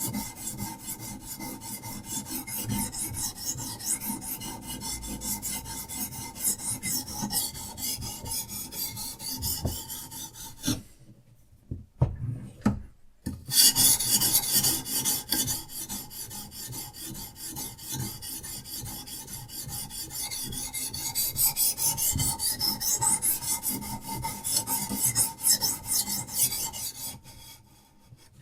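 Diamond sharpening stone on a Hapstone RS guided sharpener stroked rapidly back and forth along a steel knife edge, a steady rasping scrape. The strokes pause for about two seconds midway, with a couple of light knocks, then resume and stop near the end.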